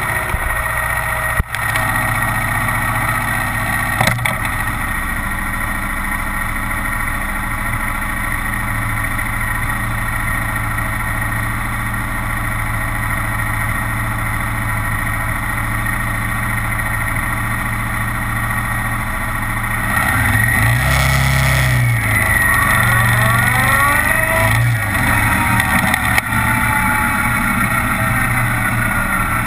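Kawasaki Vulcan 900's V-twin engine running steadily under way. About two-thirds of the way through it gets louder as the revs climb, and there are two short sharp clicks in the first few seconds.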